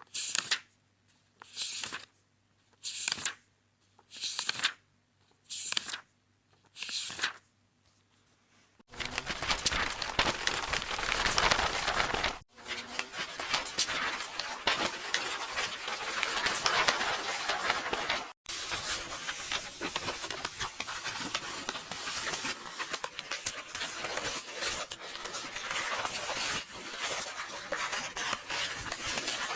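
Book pages being turned, six quick papery swishes about one and a half seconds apart. About nine seconds in it switches to continuous paper tearing and rustling, louder and crackly, broken by two short gaps.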